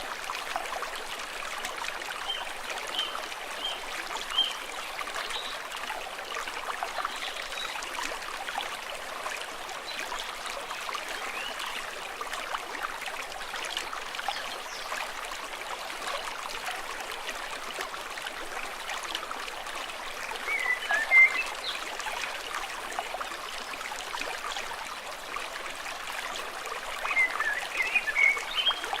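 A shallow stream babbling and trickling steadily, with a few brief high chirps, loudest about two-thirds through and again near the end.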